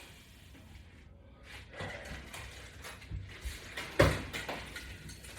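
Metal hardware of a latch-bar resistance-band attachment system rattling and clicking as it is handled, with one sharp click about four seconds in.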